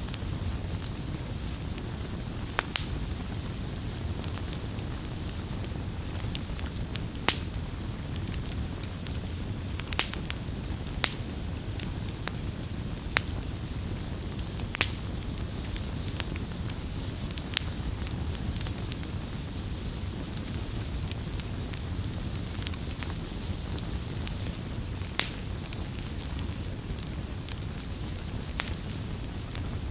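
Wood fire crackling and popping: a steady low rumble of the flames with sharp snaps every second or two.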